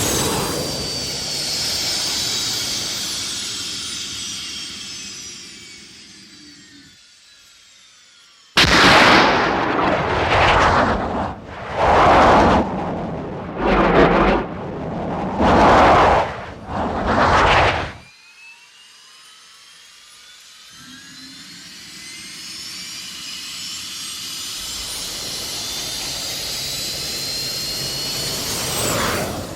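Jet-pack and rocket sound effects: a jet whine that falls in pitch and fades away, then about six short loud thruster blasts about two seconds apart, then a jet whine rising in pitch and growing louder until it cuts off suddenly at the end.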